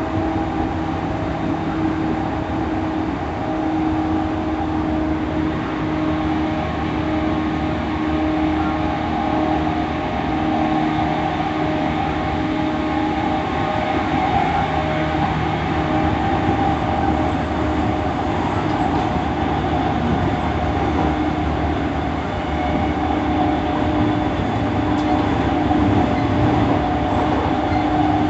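E231 series 1000 electric multiple unit running at speed between stations: a steady motor hum with several held tones over continuous rolling wheel-on-rail noise.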